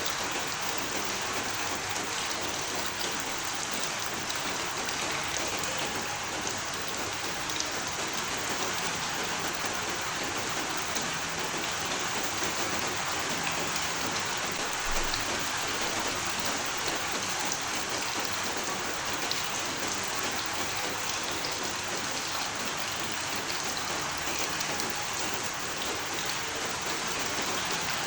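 Steady rain: an even hiss with scattered drops ticking through it.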